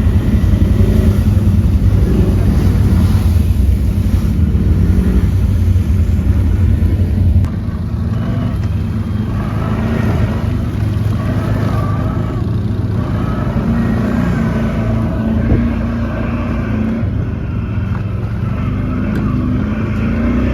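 ATV engine running, with a deep rumble that drops off suddenly about seven seconds in; after that the engine note rises and falls.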